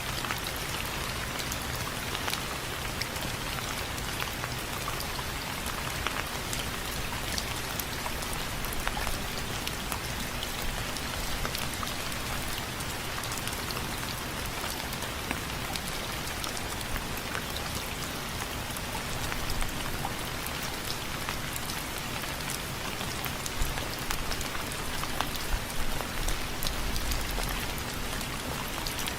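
Steady rain with many individual drops ticking on window frames, with a few louder drop hits about three-quarters of the way through.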